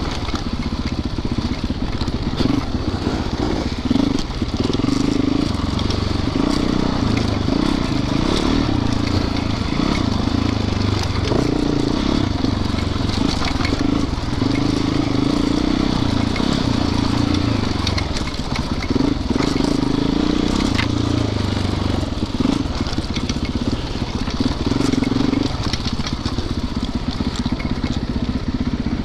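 Four-stroke dirt bike engine running under way, its pitch rising and falling as the throttle is worked, with scattered knocks and crackles from the rough trail.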